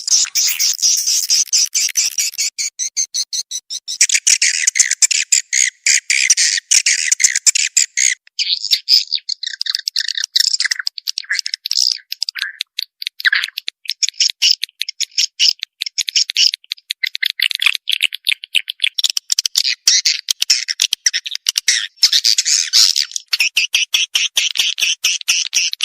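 Recorded swiftlet calls: a dense, fast, high twittering of chirps running on with only brief gaps. It is a swiftlet lure sound (suara walet panggil), played to draw swiftlets into a bird house and get them to roost there.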